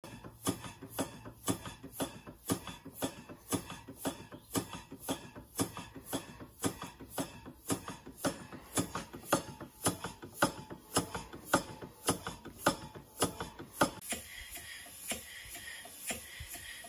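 Stevens Model Dockyard toy steam engine running with a sharp, regular knock about twice a second, which the owner puts down to a slack big-end bearing and suspects is also the piston hitting the lower cylinder end cover. Near the end the knocking gives way to a fainter steady high tone with only occasional soft ticks.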